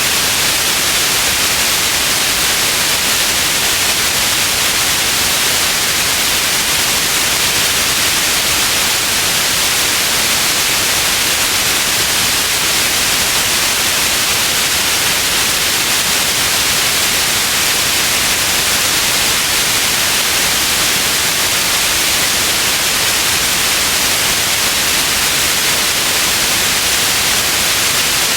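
Steady white noise: a constant, even hiss with no changes, strongest in the upper range.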